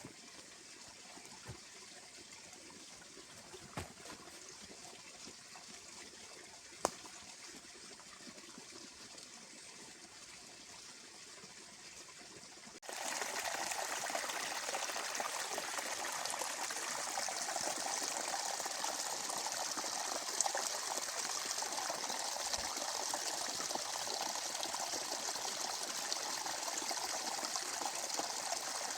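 Running water. For about the first half it is faint, with a few sharp clicks, then it jumps abruptly louder into a steady splashing rush.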